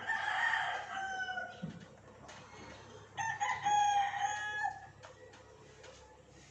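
Rooster crowing twice, each crow about a second and a half long and falling slightly in pitch at the end.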